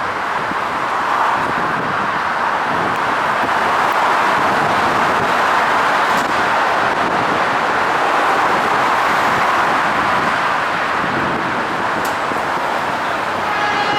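R160 subway train running on its tracks: a steady, loud rushing rumble, with a whine of several even tones starting just before the end.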